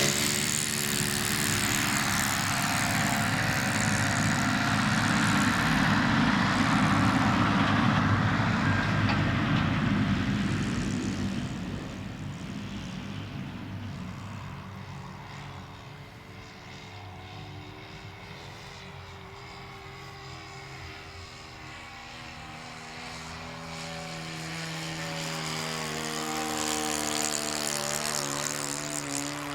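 Radio-controlled model plane's Saito 40 glow engine in flight, its propeller buzzing. It is loud for the first ten seconds or so, fades as the plane flies off, and grows louder again near the end as it comes back.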